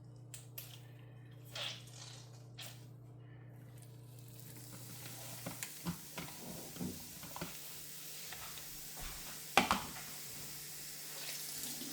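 Oyster mushrooms frying in hot oil in a pan: a steady sizzle sets in about four seconds in, with scattered clicks and knocks of a utensil against the pan, one louder knock near the end.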